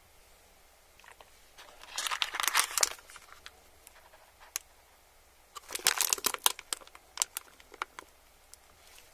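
Close-miked crinkling and crackling in two bursts of about a second each, one about two seconds in and one near the six-second mark, with scattered single clicks between.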